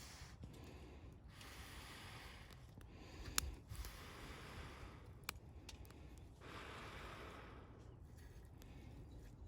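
Wood campfire burning: a soft hiss of flames that swells and fades, with a few sharp crackles, the loudest pop about three and a half seconds in.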